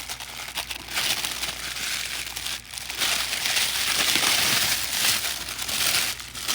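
Packaging crinkling and rustling as a boxed O gauge model steam locomotive is unwrapped by hand, in a steady run of crackly handling noise that grows louder after the first couple of seconds.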